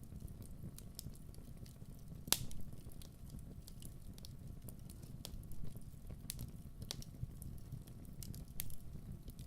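Wood fire crackling: a steady low rumble of burning with irregular sharp pops and snaps, the loudest about two seconds in.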